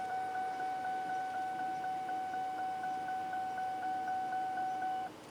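Steady electronic tone, one pitch held with a slight pulse about four times a second, cutting off suddenly near the end.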